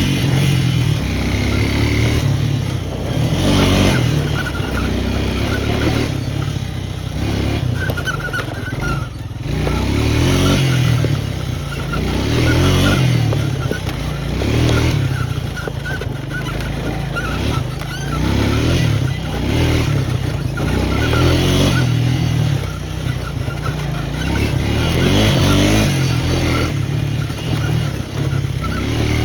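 Four-wheeler (ATV) engine under way on a dirt trail, its revs rising and falling every couple of seconds as the rider works the throttle.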